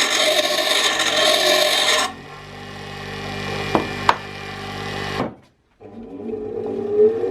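Bench grinder in use: a rasping grind of metal against the spinning stone that stops about two seconds in, leaving the motor hum. After a short break the motor starts up again, its whine rising in pitch near the end.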